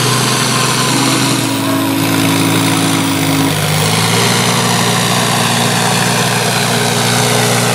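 An International tractor's engine running hard under load as it pulls the sled down the track. It makes a steady drone whose pitch shifts about a second and a half in and again around three and a half seconds in.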